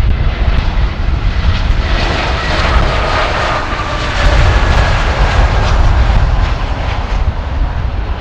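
Jet engine noise from an Airbus A320neo's Pratt & Whitney geared turbofans on landing, swelling through the middle and easing near the end, with a faint whine that drops slightly in pitch. Wind buffets the microphone throughout.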